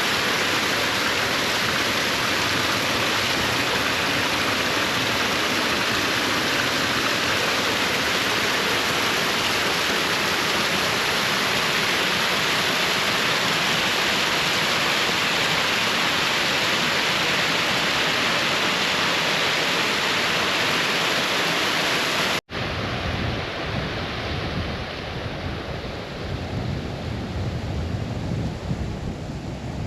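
Steady rushing of a mountain stream pouring down through a waterfall. About 22 seconds in, it cuts off abruptly and is replaced by an uneven low rumble.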